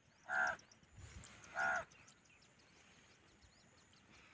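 A bird calling twice, two short harsh calls about a second apart, over a faint steady high-pitched insect trill.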